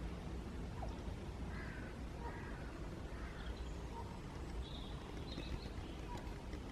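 Crows cawing in the distance, a few hoarse calls, with short high chirps from a small bird about two thirds of the way through, over a faint low steady rumble.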